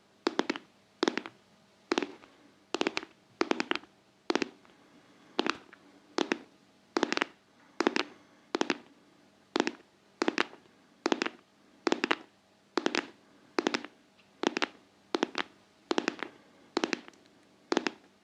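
Close-miked tapping on a hard object: crisp, sharp taps at about two a second, many of them in quick pairs.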